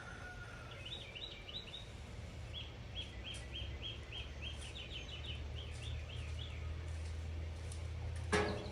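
A small songbird singing a series of rapid, high chirps, about three a second, over a steady low rumble. Near the end a short, louder call cuts in.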